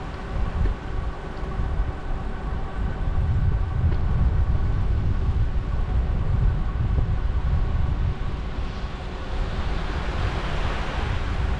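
Wind buffeting the microphone of a moving bicycle, a heavy steady rumble, over a faint steady whine of several tones. A hiss swells and fades near the end.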